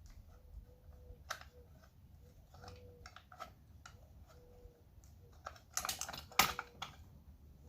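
Small metal parts of a pull start assembly being handled: scattered light clicks and knocks, with a louder burst of rattling clicks about six seconds in.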